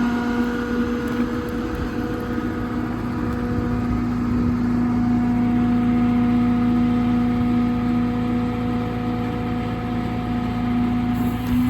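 PACCAR PX-8 six-cylinder diesel of a Kenworth T370 running steadily with the PTO driving the crane hydraulics, a steady humming whine over engine rumble that dips briefly near the end.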